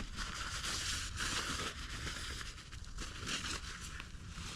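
Irregular crinkling and rubbing as the oil filter housing is wiped clean of gooey oil by hand.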